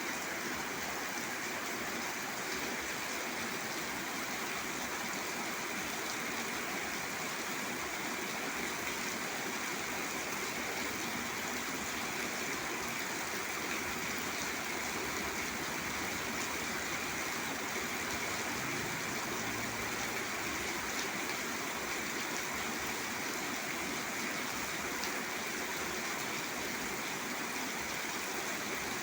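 Rain falling steadily, an even hiss that does not change throughout.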